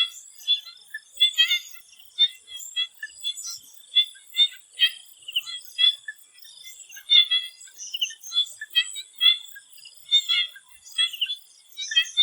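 A chorus of swamp frogs calling in short, clicky notes, several a second and overlapping, over a thin steady high-pitched tone.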